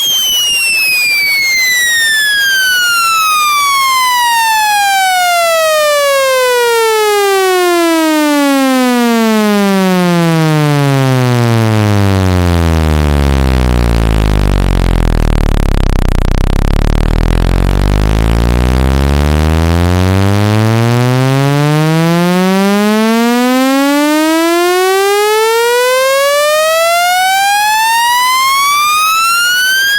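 Loud electronic speaker-cleaning tone, rich in overtones, sweeping steadily down in pitch from a high whine to a deep low hum over about thirteen seconds, staying low for several seconds, then sweeping back up to a high pitch near the end. It is a low-frequency sweep played at full volume to shake water and dust out of a phone speaker.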